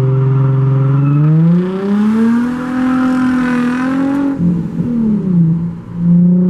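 A loud car engine accelerating: the engine note climbs for about three seconds, drops sharply at a gear change a little after four seconds in, then holds steady in the next gear.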